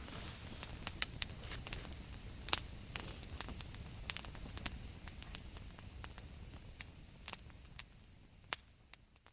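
Campfire crackling: scattered sharp pops over a low, steady rumble, fading away over the last few seconds.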